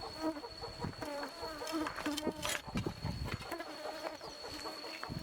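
Chickens clucking and calling in short, wavering notes, over a steady high insect drone, with a few sharp clicks midway.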